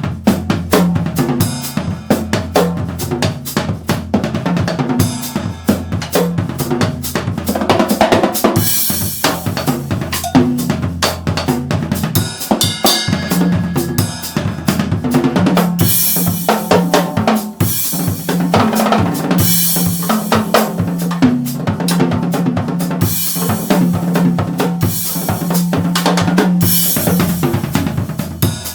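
Yamaha acoustic drum kit played with sticks: a busy run of kick, snare and tom strokes, with the low drums ringing, and Zildjian cymbal crashes washing over it every few seconds.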